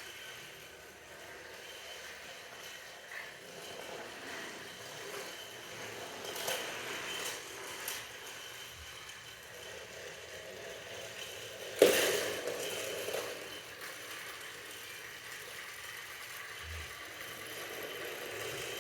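Train carriage running noise: a steady rumble with rattling and small knocks, and one sharp, loud knock about twelve seconds in.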